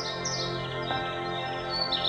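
Small forest birds chirping in quick runs of high notes that step downward, over soft ambient music with held, steady chords.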